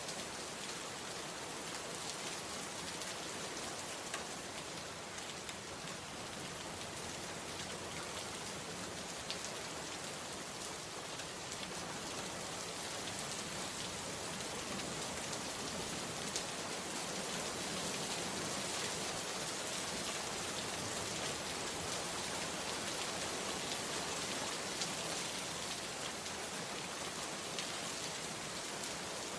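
Steady rain falling, a dense even hiss with scattered sharper drip ticks, growing a little louder about halfway through.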